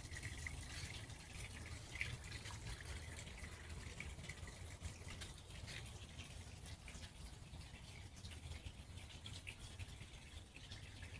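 Water trickling and dripping in many small irregular splashes over a steady low rumble.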